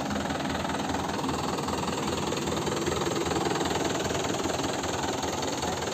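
Mahindra tractor's diesel engine running steadily, a little louder in the middle.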